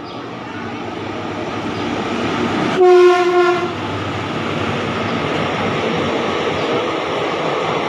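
Indian Railways express train hauled by an electric locomotive approaching, its rolling noise growing steadily louder, with one short horn blast about three seconds in, then the steady clatter of the train running past.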